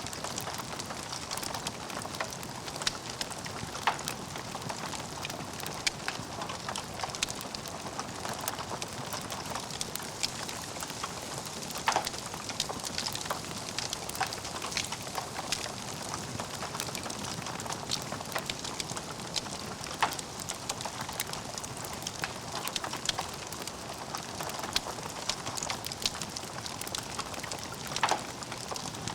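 Wood fire burning in a fireplace, crackling steadily with dense small snaps. A few louder pops stand out every several seconds.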